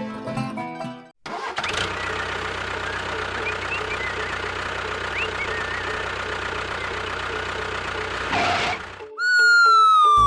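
Engine running steadily for about seven seconds after a short burst of music cuts off, followed near the end by a loud falling tone with overtones, like a sliding whistle.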